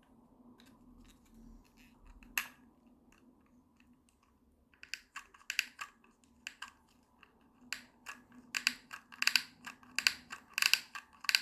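A run of quick, irregular clicks and snips from hands at work on a hot-glue craft job: a few scattered clicks at first, then a busy, denser clatter from about halfway through.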